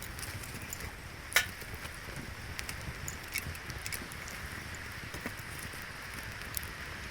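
Wood fire crackling, with scattered sharp pops and one loud pop about a second and a half in, over a low steady rumble.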